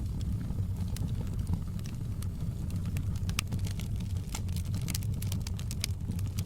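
Wood fire crackling in a fireplace: a steady low rumble of burning with many quick sharp pops and snaps, more frequent and louder in the second half.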